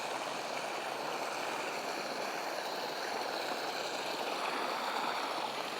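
Steady rush of flowing water from a small waterfall and stream.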